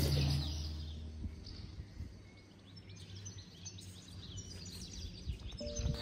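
Background music with long held notes fades out in the first second. Faint bird chirps follow over quiet outdoor ambience, and the music comes back in near the end.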